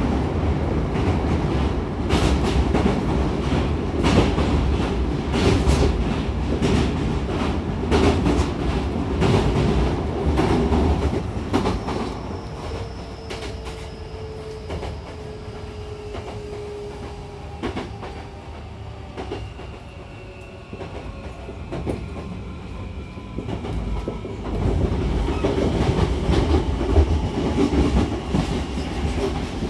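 Hankyu 9000-series electric train running, heard from inside the car at the doors: a steady rumble with wheels clattering over rail joints. The clatter and rumble ease off midway, leaving a faint whine slowly falling in pitch, then grow loud again near the end.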